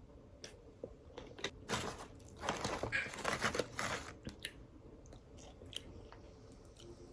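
Close-up chewing and biting of crispy fried food: sharp crunches and mouth clicks, with a dense burst of crunching from about two to four seconds in.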